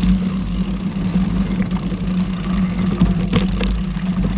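Mountain bike rolling along a forest trail: steady rumble of tyres and wind on the camera microphone, with scattered clicks and rattles from the bike. A thin, very high squeal comes and goes from about halfway through.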